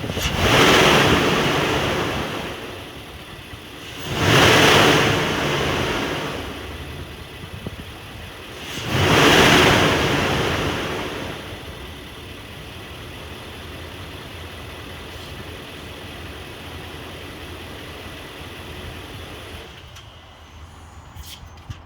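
2017 Nissan Titan pickup engine revved three times, each rev falling back to idle over a couple of seconds, then idling steadily for the rest of the time.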